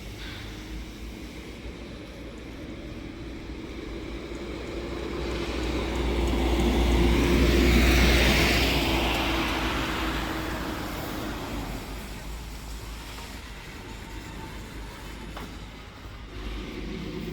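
A heavy truck driving past: its engine and tyre noise grow louder to a peak about eight seconds in, then fade away.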